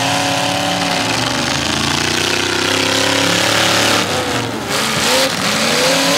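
Several demolition derby car engines running and revving at once, their pitches rising and falling over each other, with a brief drop in level about four and a half seconds in.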